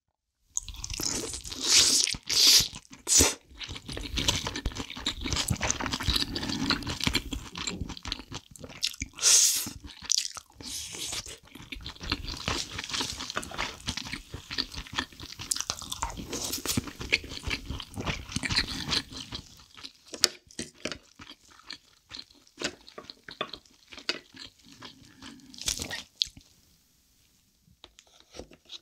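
Close-miked chewing of a mouthful of soy-sauce-marinated abalone with rice: wet, crunchy bites, loudest a couple of seconds in and again around nine seconds, trailing off to near quiet near the end.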